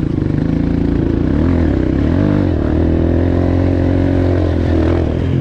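Four-stroke dirt bike engine running, its revs dropping and picking up twice about one and a half and two and a half seconds in, then held steady.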